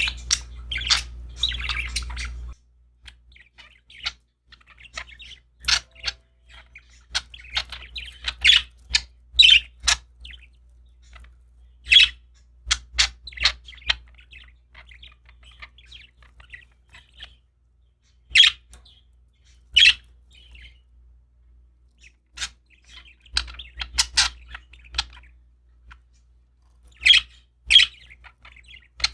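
Pet budgerigars chirping and warbling in short, scattered calls with brief pauses between them.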